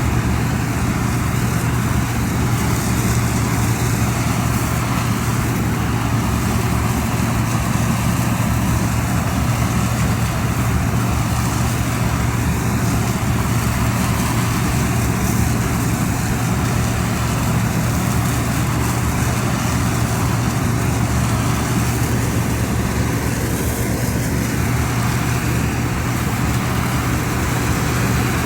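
Rice harvesting machine's engine running steadily, with a constant low hum under a wide mechanical noise.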